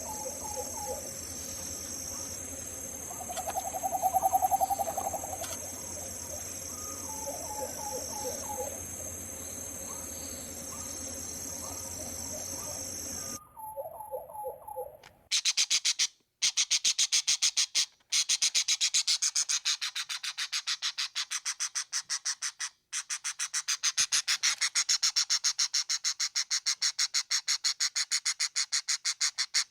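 Tropical bird calls over a steady high-pitched drone, with one louder call about four seconds in. The sound cuts off abruptly about a third of the way through. After a few short calls, a fast, evenly repeated high chirping begins and runs with brief gaps.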